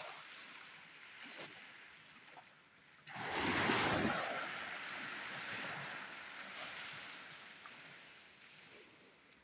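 A sea wave breaking on the shore about three seconds in, then washing up and slowly fading.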